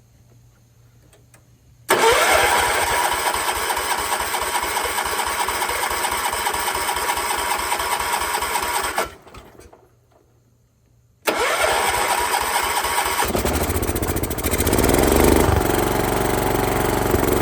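Ford LGT165 garden tractor's engine cranked by its starter for about seven seconds without catching, then cranked again, catching about two seconds in and running, revving up and back down briefly. The ignition points have just been filed and gapped.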